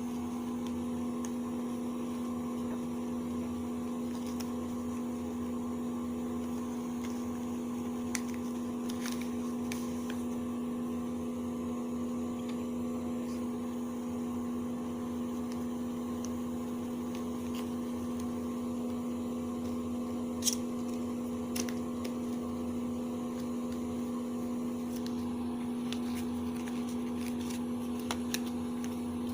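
A steady, even-pitched hum, with a few faint short clicks scattered through it.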